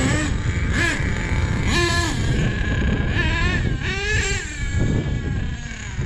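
Small nitro RC truck engine revving up and falling back several times in quick blips, over a steady low rumble.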